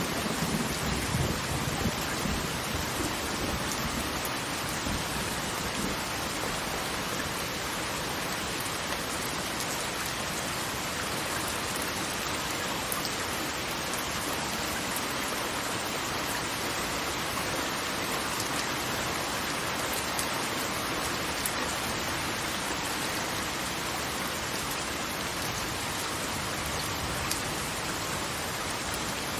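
Steady rushing water noise, even and unbroken. A deep rumble underneath dies away over the first few seconds.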